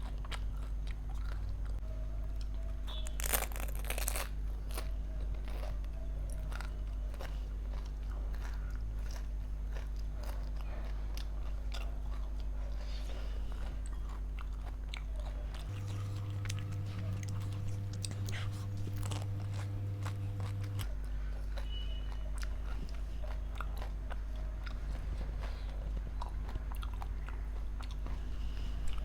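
Crisp golgappa (pani puri) shells being bitten and chewed at close range, with repeated crunches and a louder crunch about three seconds in, over a steady low hum.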